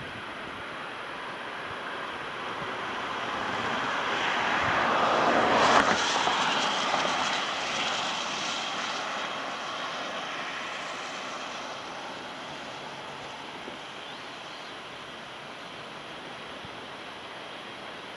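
A vehicle passing by: it swells to a peak about six seconds in, then fades away over a steady background rush.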